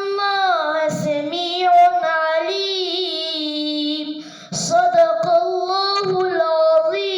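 A young boy's voice reciting the Quran in melodic tajweed style, holding long, ornamented notes that waver and slide in pitch, with a short breath about four seconds in.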